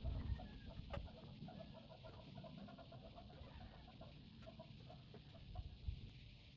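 A bird calling faintly in a quick run of short repeated notes, with a few scattered clicks.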